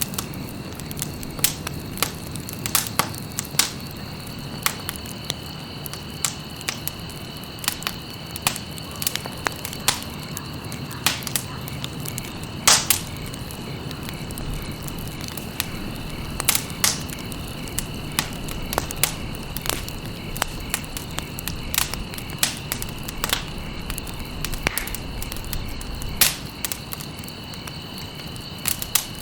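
Campfire burning: frequent sharp crackles and pops from burning stalks over a low rumble of flames, the loudest pop about halfway through. A steady high-pitched tone runs underneath.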